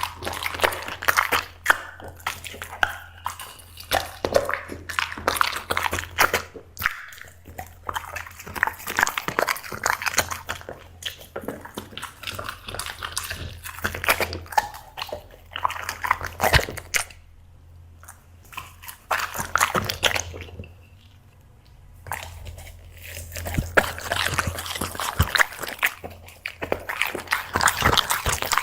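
A black Labrador chewing and crunching dried seafood snacks, with dense irregular crunches and mouth smacking that ease off for a few seconds past the middle, over a steady low hum.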